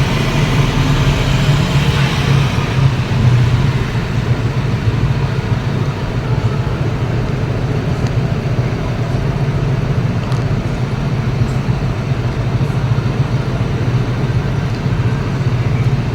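Steady running noise of a motor vehicle: a low engine drone with road noise.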